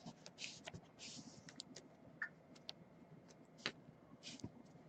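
Faint, scattered light clicks and a few short soft rustles of hands working at a desk.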